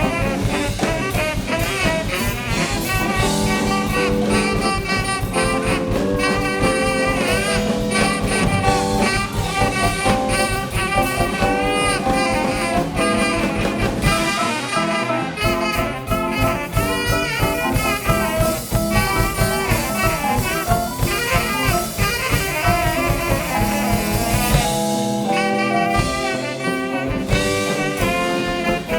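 Live band playing jazzy funk, with horns or saxophone over guitar and drum kit. The bass drops out briefly twice: about halfway through and again near the end.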